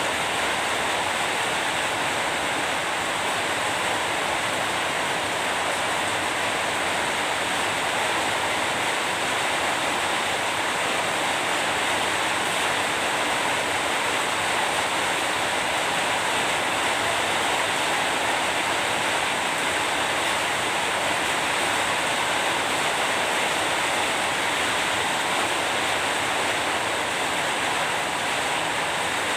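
Rain falling steadily, an even unbroken hiss with no separate drops or thunder standing out.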